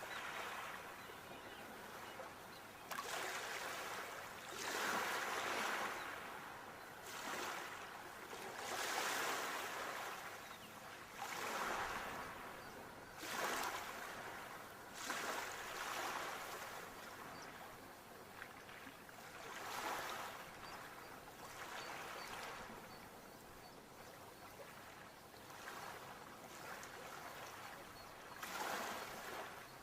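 Sea waves breaking and washing ashore, the surf swelling and falling back every few seconds.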